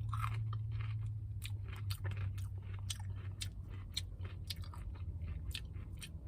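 Close-up biting and chewing of a spicy crispy fried chicken sandwich, the breading giving sharp crunches about two or three times a second. A steady low hum runs underneath.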